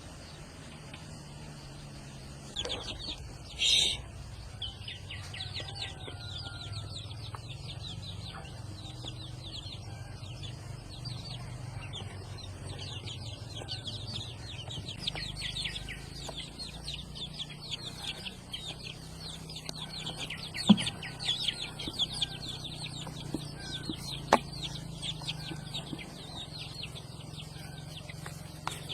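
Chickens calling, a dense chorus of quick high peeps over a low steady hum, with two sharp knocks in the second half.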